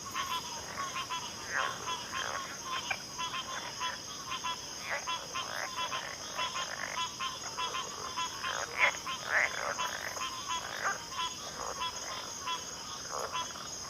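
A chorus of frogs calling, with many short overlapping croaks and calls and a repeated pulsing note, over a continuous steady high insect buzz.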